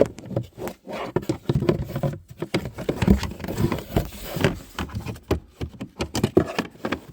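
Irregular plastic clicks, knocks and scraping as a cabin air filter and its housing cover are handled and fitted into place.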